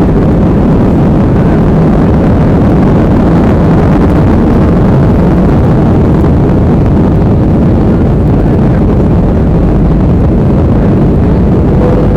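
Airliner engines at takeoff power during the takeoff: a loud, steady rumble with no breaks.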